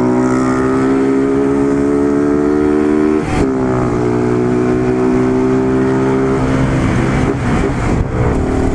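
Motorcycle engine running at a steady speed while riding, with a short break about three seconds in, like a gear change.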